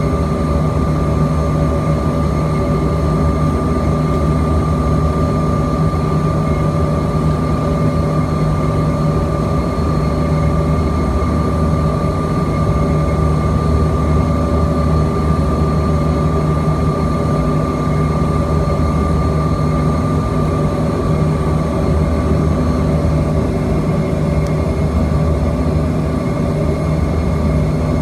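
Bombardier CRJ-200's rear-mounted GE CF34 turbofan engines running steadily, heard inside the cabin as a loud, even rumble with a steady high whine over it.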